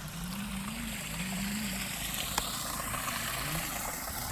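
Small electric motor of a Traxxas TRX-4 RC crawler truck whining low, its pitch rising and falling in slow swells as the throttle is worked, over a steady hiss of water.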